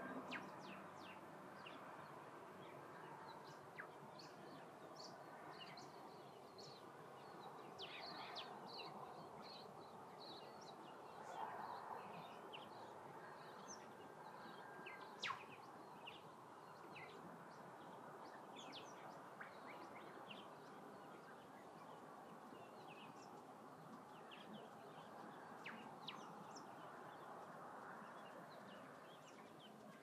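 Faint, scattered bird chirps and calls over a soft steady background hiss, with one sharper chirp about halfway through.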